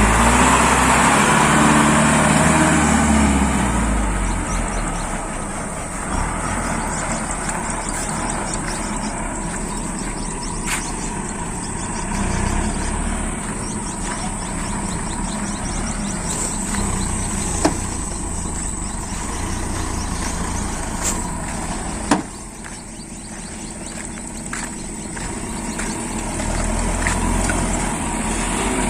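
Heavy dump truck's engine running, loudest for the first few seconds, then easing off and building again near the end, with a few sharp knocks along the way.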